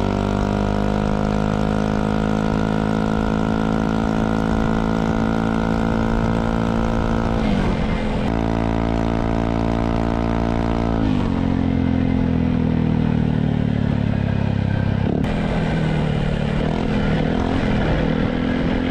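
Yamaha XMAX scooter's single-cylinder engine running through a Villan MV1 aftermarket exhaust, revved up and held at high revs, dipping briefly and rising again about seven seconds in. About eleven seconds in it drops back to low revs, with small blips of throttle near the end.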